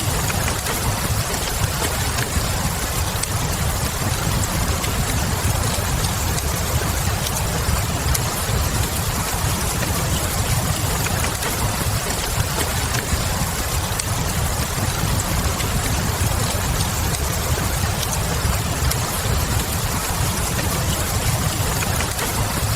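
Steady rain hiss with a low, even rumble and small fire crackles scattered through it: a fireplace-and-rain ambience mix.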